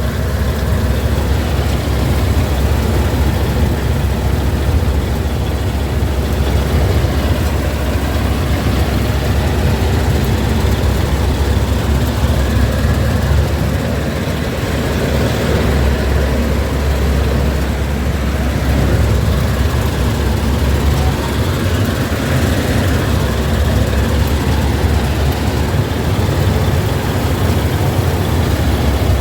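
A heavy farm-machinery diesel engine running steadily, with a deep, low drone that holds throughout.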